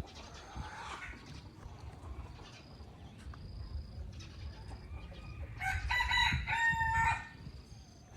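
A rooster crowing once, about six seconds in, a pitched call lasting about a second and a half.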